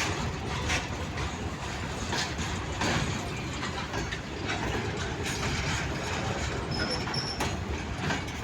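Train wheels running on rails: a steady rumble with irregular clattering knocks from the wheels and track. A short high-pitched squeak comes about seven seconds in.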